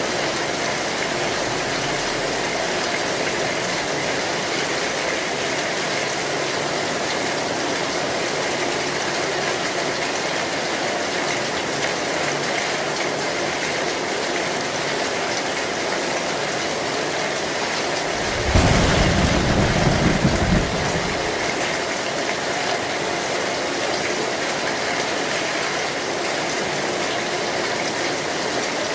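Heavy rain pelting an old metal roof, a dense steady hiss. About two-thirds of the way through, a sudden thunderclap rumbles low and loud for about two seconds.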